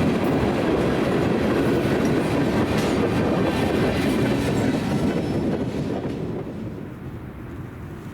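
Freight train cars rolling past on jointed rail with a rumbling clickety-clack, the noise dropping off about six seconds in.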